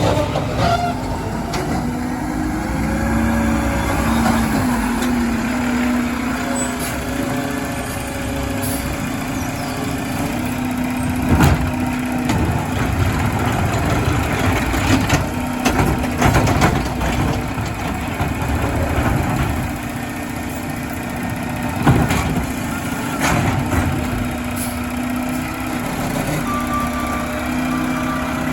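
Mack LR garbage truck's diesel engine running steadily. Several sharp knocks and clanks come in the middle, about halfway through and again near two-thirds of the way.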